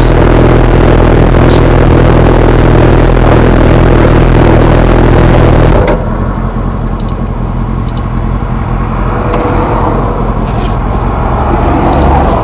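Motorcycle engine running steadily at a standstill, with heavy noise over it. About halfway through the sound drops suddenly and stays quieter.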